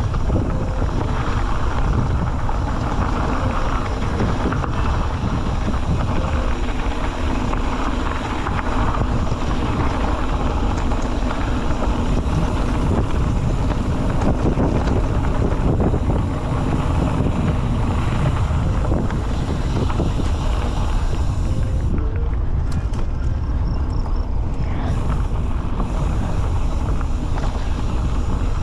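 Steady, heavy wind noise on the microphone, with a dense low rumble.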